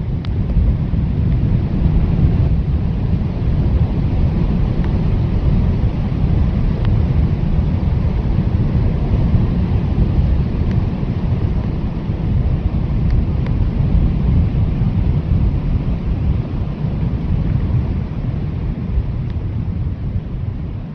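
Blizzard wind blowing hard and steadily, a deep, continuous rush that swells a little at times, with a few faint ticks.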